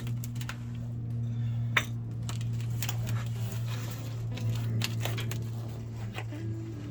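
Scattered metallic clicks and clinks of hand tools and metal parts being handled, over a steady low hum.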